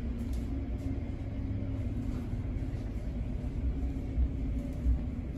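Steady low rumble with a faint continuous hum, from idling car and car-wash machinery while the conveyor wash line stands stopped.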